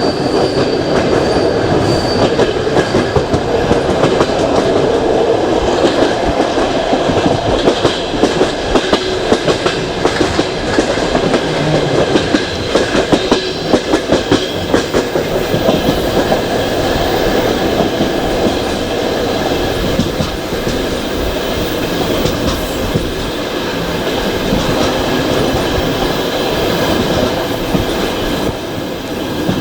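Passenger train carriage running along the track, heard at a carriage window: a steady rumble with rapid clicking of the wheels over rail joints, loudest about 8 to 15 seconds in, and a faint thin wheel squeal.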